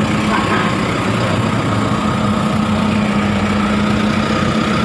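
Truck engine running steadily at a constant pitch.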